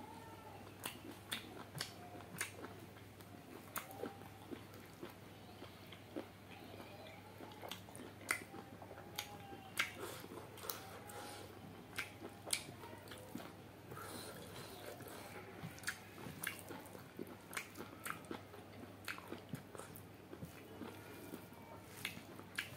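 Close-miked mouth sounds of a man eating chicken curry with rice by hand: chewing with irregular wet smacks and sharp clicks, over a low steady hum.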